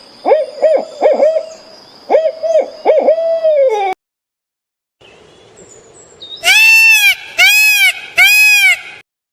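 Animal calls from two different clips. First comes a quick series of short hooting calls over a faint steady hiss, cut off abruptly. After a second of silence and some quiet background noise come three loud, strongly pitched calls that rise and fall, each about half a second long.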